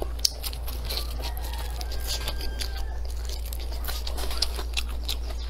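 Close-miked chewing of a bite of fried egg: scattered wet mouth clicks and smacks, over a steady low hum.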